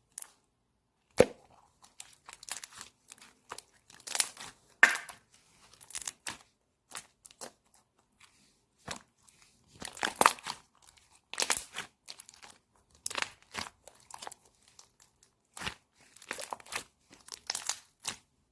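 Crinkling, crunching handling noises in short, irregular bursts, with a sharp click about a second in.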